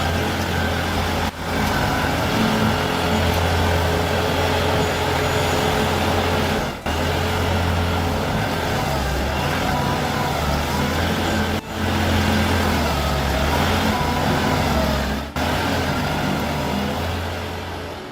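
Heavy machinery engine running steadily, a low drone with dense noise over it, with brief drops in level four times.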